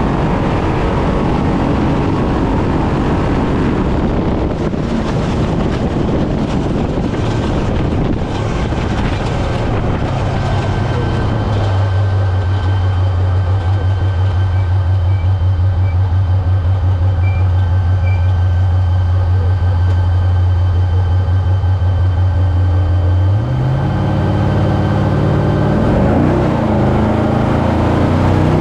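Desert race truck driving hard over rough ground: engine and chassis noise for the first part, then the engine holding a steady low drone for several seconds before its pitch climbs again as it accelerates near the end.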